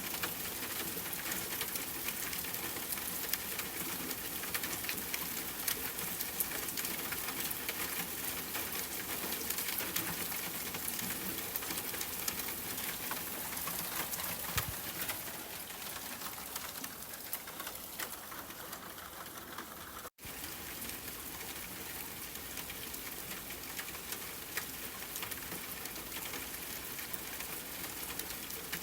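Steady rain hiss mixed with the small, scattered pops and crackles of a wood fire in a fireplace. The whole sound cuts out for an instant about two-thirds of the way through, then resumes.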